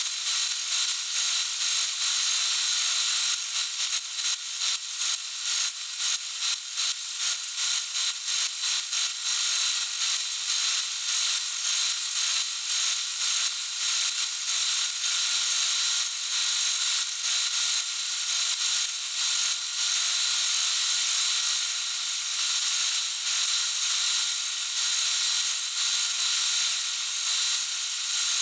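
A tool working material in quick, even scraping strokes, about two or three a second, running more steadily in the second half.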